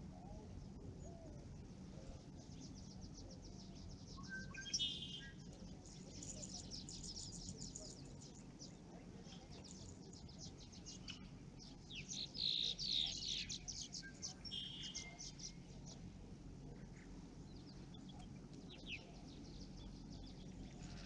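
Songbirds chirping and trilling, with several calls overlapping and the busiest stretch just past the middle. Underneath is a low, steady outdoor rumble.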